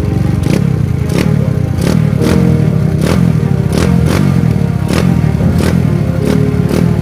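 Single-cylinder engine of a Honda Titan 150 motorcycle fitted with a 190 cc kit, TW carburettor and aftermarket S.A exhaust, running steadily and loudly through the exhaust.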